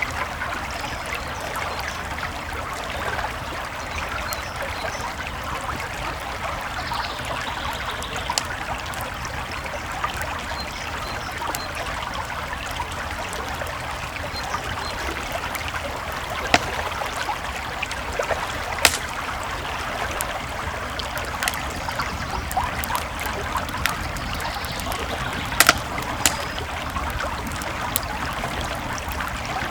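A creek flowing steadily with a campfire crackling over it, now and then a sharp pop from the fire, several of them in the second half.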